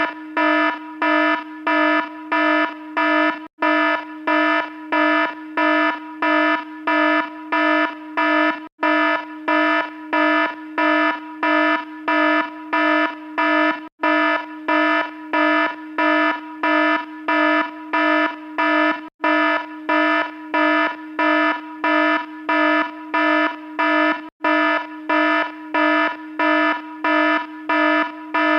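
Electronic alarm beeping: a buzzy, low-pitched tone pulsing on and off about twice a second, with a brief break every five seconds or so.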